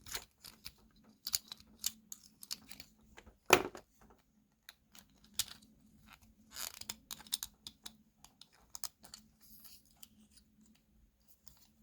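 Scattered small clicks and taps of the small plastic and diecast metal parts of a toy car being handled and pried apart, with one louder knock about three and a half seconds in.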